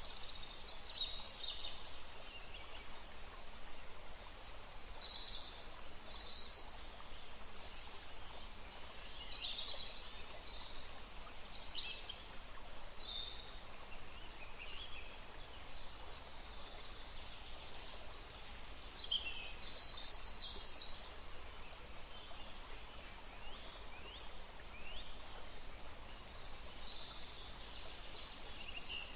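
Woodland ambience: several small birds chirping and singing in short, scattered phrases over a steady soft hiss.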